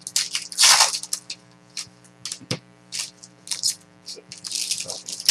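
Trading-card pack wrappers being torn open and crinkled, with cards being handled: a quick run of short rustles and crackles, loudest just before the first second.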